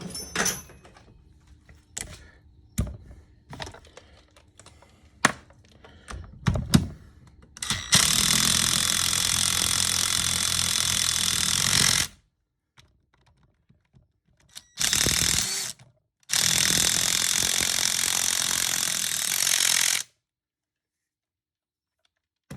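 A few clicks and knocks of a socket and tools being handled, then a power wrench on a 16 mm half-inch-drive socket running in three bursts, about four seconds, one second and nearly four seconds, as it drives in the bolts that join the two halves of a Girling brake caliper.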